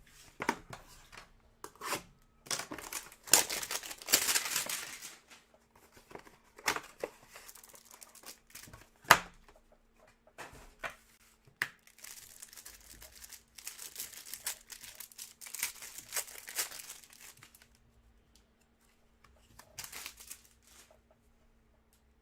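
Trading-card packaging being torn open and crinkled by hand, with sharp clicks of handling between. There are two longer spells of crinkling, one about three seconds in and one in the middle of the stretch, and it goes quiet near the end.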